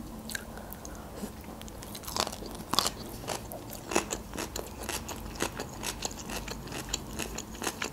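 Close-up eating sounds: a person chewing a mouthful of stuffed bell pepper and shredded carrot salad, with irregular crunches and wet mouth clicks, a few of them louder.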